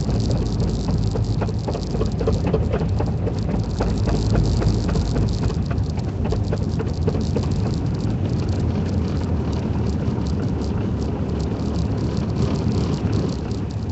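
Car running along a snow-covered road, heard from inside the cabin: a steady low rumble of engine and tyres, with many small irregular clicks and crackles throughout.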